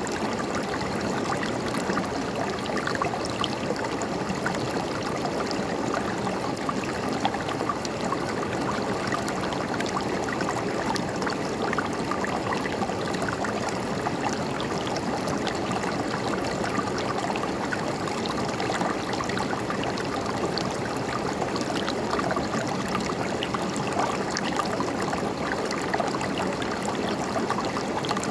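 River water flowing and gurgling over rocks, a steady babbling rush with small splashes throughout.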